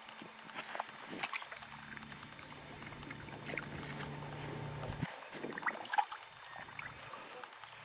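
Small splashes and knocks of water and gear around a fishing boat, with a low steady hum for a few seconds in the middle.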